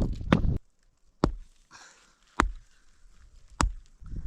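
Axe chopping wood: four sharp single strikes, evenly spaced about a second apart, after a short low rumble at the start.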